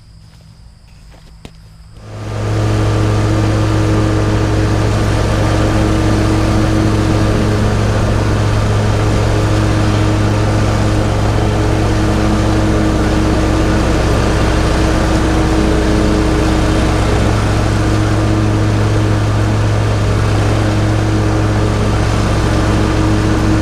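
Riding lawn mower engine coming in loud about two seconds in, then running at a steady speed with a low hum.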